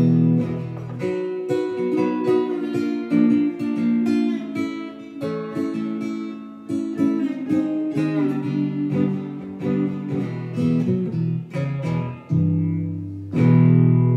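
Ovation resonator guitar playing slide blues in E: a run of picked notes and short chords, then a full chord struck near the end and left ringing.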